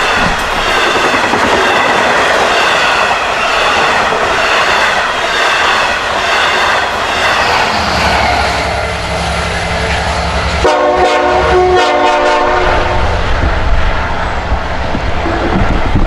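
Long Island Rail Road Cannonball passing close by: C-3 bilevel coaches rolling with a rhythmic clickety-clack of wheels over rail joints, then from about eight seconds in the deep engine rumble of the trailing DM30AC diesel locomotive. About eleven seconds in, that rear locomotive's horn sounds, two blasts, the first longer.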